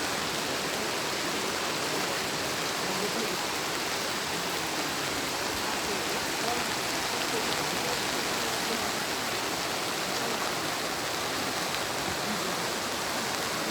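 Steady rushing of a flooded river in spate, an even roar of fast water with no let-up.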